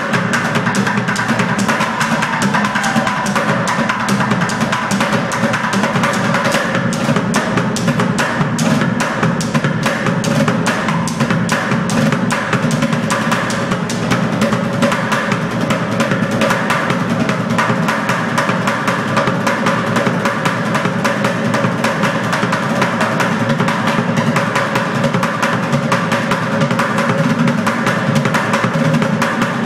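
Bucket drummers playing plastic pails with sticks: a fast, dense, unbroken rhythm of strokes with rolls, the low booming bucket bottoms under sharp rim hits.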